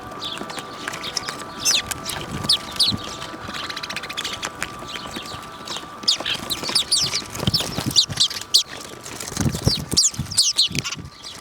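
Small birds chirping, with many short, quick, downward-sliding notes overlapping throughout, and a few dull thumps near the end.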